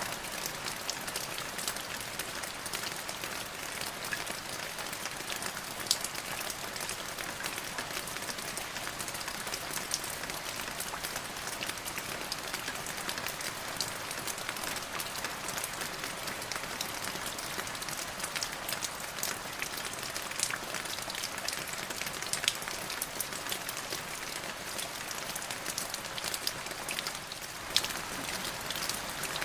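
Steady rain falling, with many separate drops ticking sharply on a hard surface over the even hiss of the downpour.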